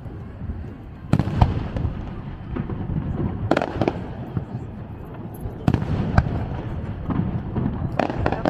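Japanese aerial fireworks shells bursting in a display, with several sharp bangs a second or two apart and a continuous low rumble and crackle between them.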